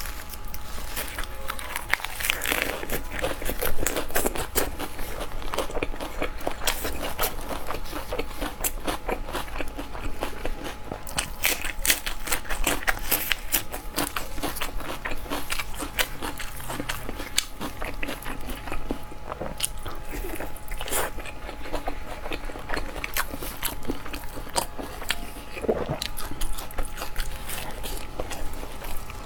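Close-miked eating: a person chewing and crunching food in a steady run of irregular wet crackles and mouth clicks.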